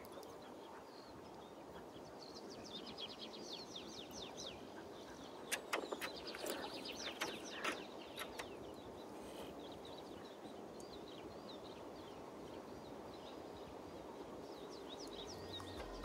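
Quiet outdoor ambience over a faint steady hiss: a small bird sings runs of quick, high, falling notes twice, a few seconds in and near the end. Around the middle comes a short cluster of knocks and clicks, the loudest sounds.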